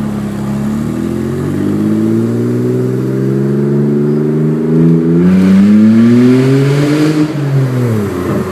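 BMW straight-six running with no exhaust past the headers, revved up slowly and held, louder and raspier near the top, then dropping back down near the end.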